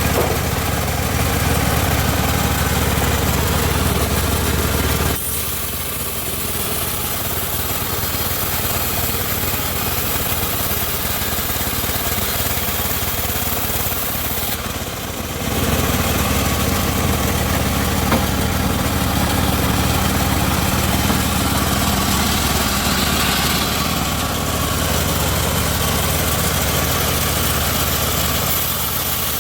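Home-built bandsaw sawmill running with a steady engine-like drone. The low rumble thins and drops a little about five seconds in, and comes back about ten seconds later.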